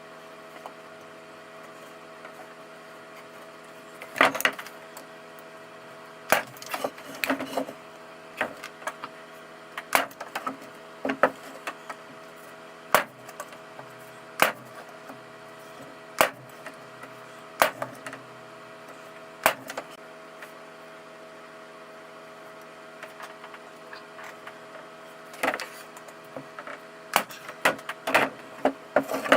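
Electric nail gun driving nails into pine boards: a run of sharp snaps, often a second or two apart, with a quiet gap of a few seconds about two-thirds through. A steady faint hum lies underneath.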